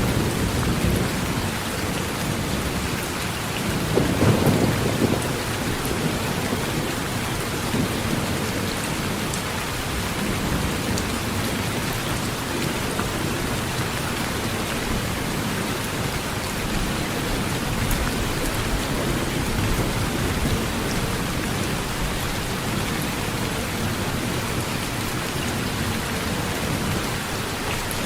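Heavy rain falling steadily on a metal roof, with a low thunder rumble about four seconds in.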